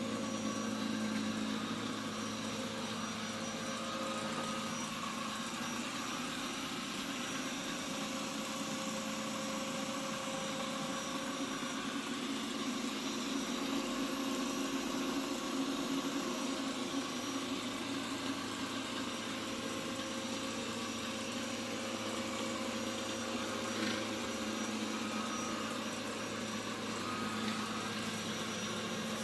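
Ecovacs Deebot X2 Omni robot vacuum running: a steady hum of its motor and suction fan.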